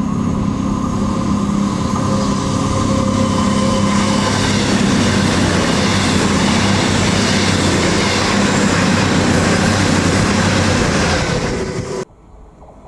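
A train passing close by at a station: loud, steady engine tones at first, then a growing rush of wheel and rail noise. The sound cuts off abruptly near the end.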